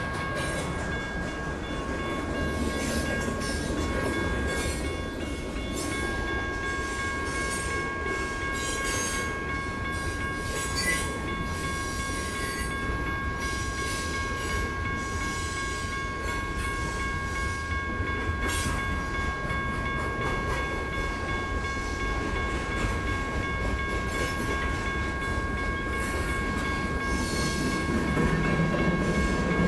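Freight cars of a mixed manifest train rolling through a level crossing, with a steady rumble and scattered wheel clicks. The crossing's General Signal Type 1 and WCH Type 1.5 electronic bells ring continuously as a steady, high, fixed-pitch tone. The rumble gets louder near the end.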